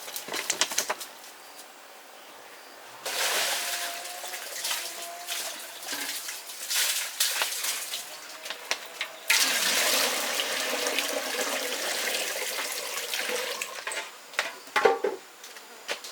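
Water gushing or splashing in two long stretches, with scattered clicks and knocks at the start and a few sharper knocks near the end.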